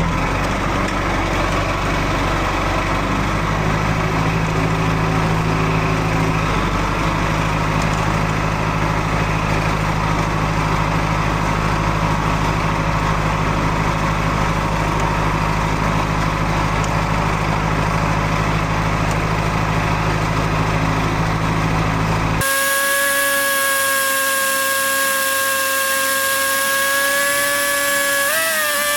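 Tractor engine running steadily at constant speed. About 22 seconds in it cuts off abruptly to a steady high-pitched whine that wavers briefly in pitch near the end.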